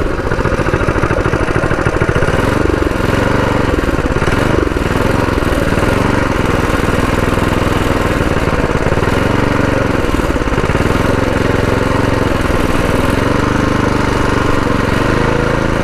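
Predator 212 single-cylinder four-stroke engine on a mini bike running steadily under riding, its revs rising and falling. The engine is fresh and still in break-in, ridden below full throttle.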